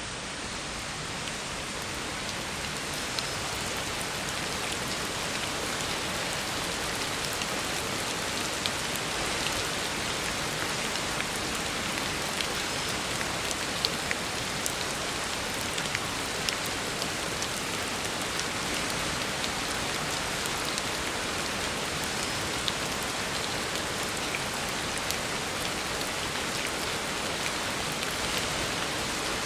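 Heavy rain falling steadily on a road surface, a dense even hiss with scattered sharper drop ticks. It fades in over the first second or two.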